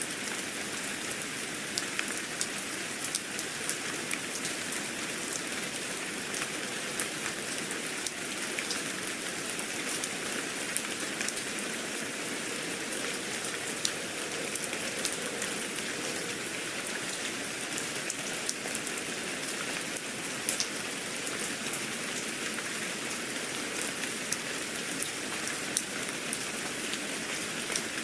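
Steady rain falling, an even hiss with many small drop ticks and splashes on a hard surface.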